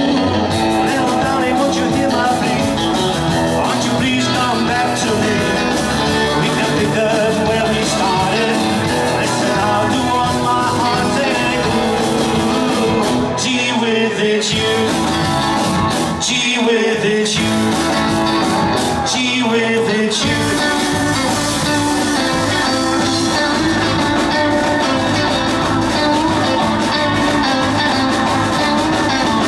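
Rock and roll band playing, guitar to the fore, with the bass filling out about two-thirds of the way through.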